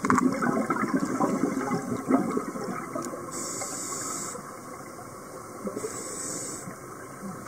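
Sea water rushing and churning, loudest for the first couple of seconds and then easing off.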